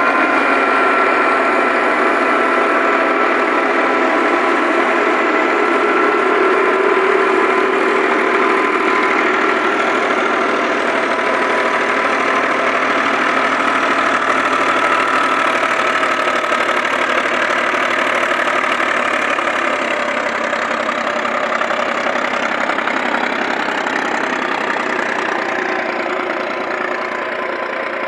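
Millat tractor engine running steadily, driving a wheat thresher, with a continuous machine hum. The sound eases off slightly in level over the last several seconds.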